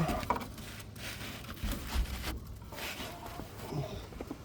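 Faint rustling and a few light knocks of hand tools being handled while a socket wrench is fitted to a shock-absorber bolt.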